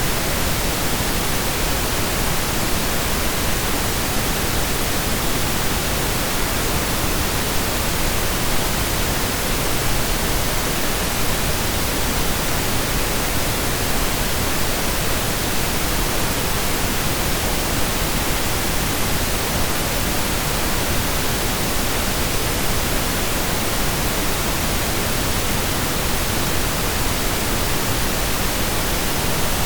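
Steady synthesized pink noise: an even hiss spread across the whole range, with equal energy per octave, unchanging throughout.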